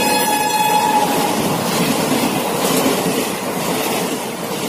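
Passenger train passing at speed close by: its horn note drops slightly in pitch and stops about a second in, under the rush and rattle of the coaches going past, which fades gradually.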